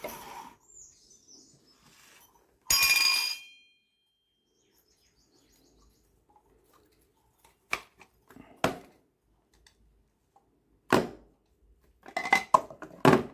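Plastic parts of a cold-press juicer being taken apart. A short, loud, high squeal comes about three seconds in, then several separate knocks and clicks follow in the second half.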